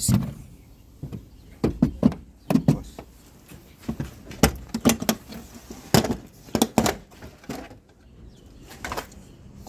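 A series of irregular sharp knocks and clanks, about a dozen spread unevenly, typical of metal tools and parts being handled during work on the car's rear suspension.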